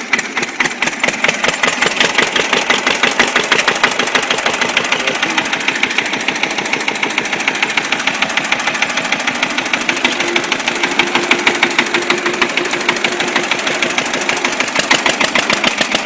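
A small engine running steadily with a rapid, even chatter of firing pulses, thin and high in pitch with little low end.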